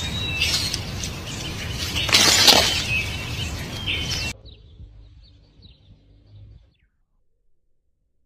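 Birds chirping in short calls over a steady outdoor hiss, with a loud crackling burst about two seconds in. The sound cuts off abruptly after about four seconds; faint chirps go on briefly, then silence.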